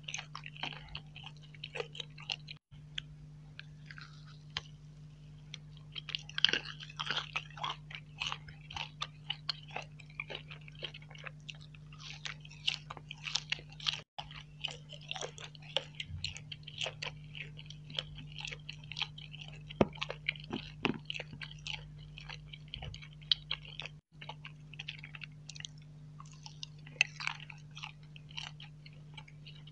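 Close-miked eating: chewing and wet mouth clicks from soft sweets such as marshmallow and nut nougat, over a steady low hum. The sound drops out briefly three times.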